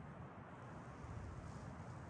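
Wind blowing through pine trees, a faint, steady low rushing.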